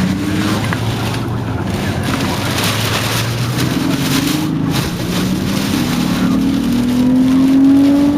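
A car's engine speeding up, its pitch climbing steadily through the second half, under a loud, steady rush of wind and road noise.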